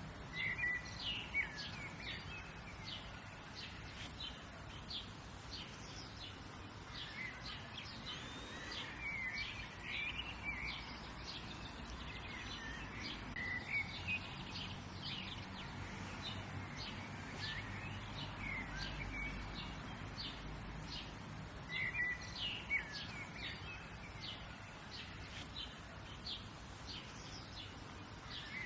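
Several birds chirping and calling, with many short quick chirps and some longer curving calls, over a steady low background noise.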